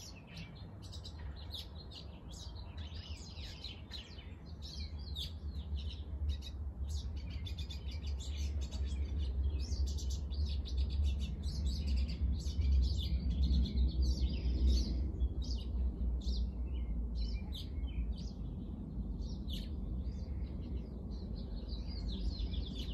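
Songbirds chirping and calling, many short high calls overlapping. Under them a low rumble swells through the middle and eases off toward the end.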